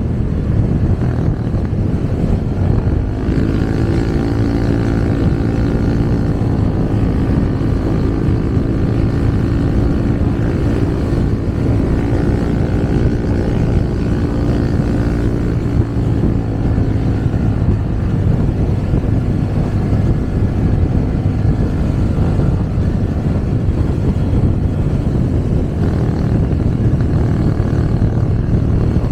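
Motorcycle riding in traffic: a steady low rumble of engine, road and wind noise. A humming engine note stands out from about three seconds in and fades after about seventeen seconds.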